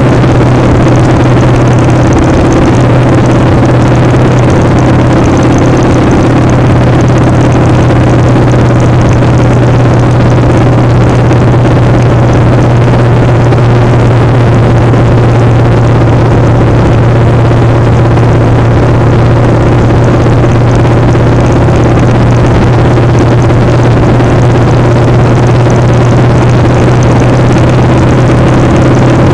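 Motorcycle engine running loud and steady at an unchanging pitch, with wind rushing over the microphone.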